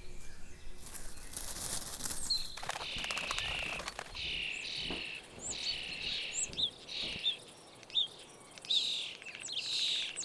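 Bird calls: a run of repeated chirps with short, sharp high notes, starting about two and a half seconds in and going on to the end, after a brief rustle about a second in.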